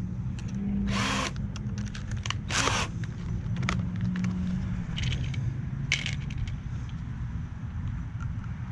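A drill driving screws into 2x4 lumber in two short bursts, about a second in and near three seconds in, followed by scattered clicks and knocks of wood and tool handling.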